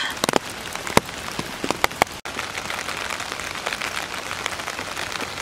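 Steady rain falling, drops hitting wet ground and foliage, with a few sharper single drop hits in the first two seconds.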